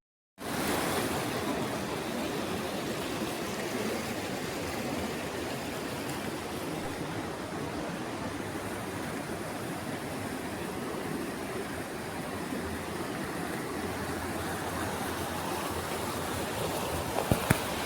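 Steady rush of flowing water, like a stream or river running over rocks, with a few sharp clicks near the end.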